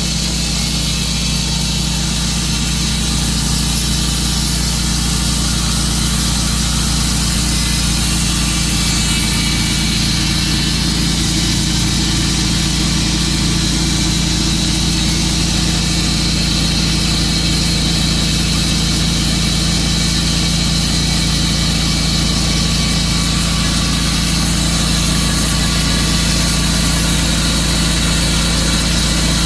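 Tru-Cut sawmill running steadily under its engine, sawing through a large silver maple log.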